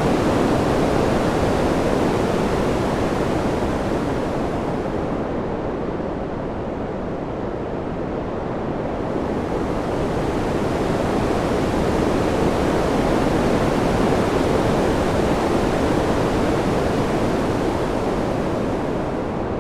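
Steady wind noise, a dense rushing hiss that eases and swells slowly, its higher hiss dulling about five seconds in and returning a few seconds later.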